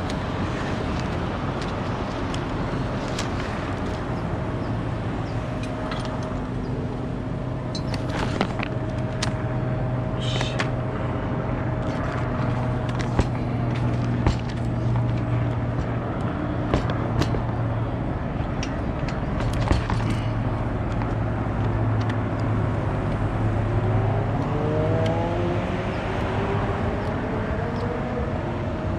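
Truck engine running steadily with a low hum, with scattered clicks and knocks from handling tools and parts. Near the end a rising engine note glides up.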